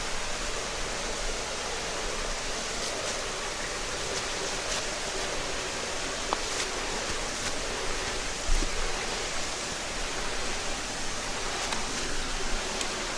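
Mountain headwater stream running over rocks: a steady rush of water with scattered small splashes and plinks. A soft low thump about eight and a half seconds in.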